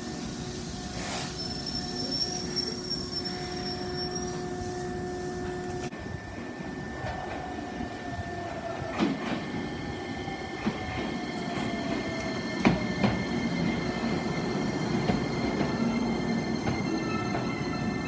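Electric commuter train running past a level crossing: a continuous rail rumble with steady motor whine, a high wheel squeal starting about a second in and lasting a few seconds, a motor tone that falls in pitch through the middle, and a few sharp clacks of wheels over rail joints.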